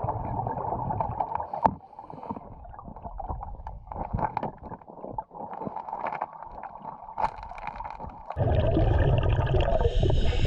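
Underwater scuba-diving sound: a diver's regulator exhaust bubbling, with a low rumble. About two seconds in it drops to a quieter stretch of scattered clicks and crackles. Loud bubbling comes back suddenly near the end.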